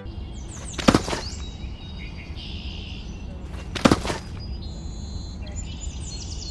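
Birds chirping in short high notes over a low steady rumble, with two sharp knocks about three seconds apart.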